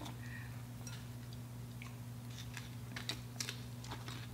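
Close-miked eating sounds: scattered small clicks and crunches of people chewing and biting food, including fried shrimp and salad, over a steady low hum.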